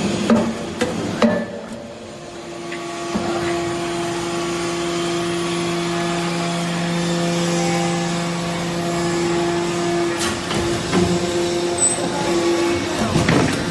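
Hydraulic metal swarf baler running: a steady mechanical hum with a clank or two in the first second and again near the end, and a deeper second tone that sets in after about three seconds and drops away about ten seconds in.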